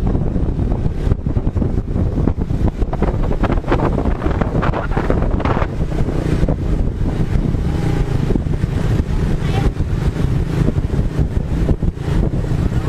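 Wind buffeting the microphone on a moving motorbike, with the engine and road noise running underneath as a steady rumble.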